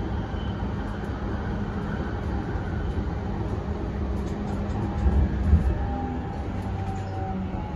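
Inside a JR East E233-1000 series Keihin-Tohoku Line electric train running: a steady low rumble of wheels on rail with a motor hum, as the train nears the station to stop. It gets briefly louder about five seconds in, and the steady hum drops away soon after.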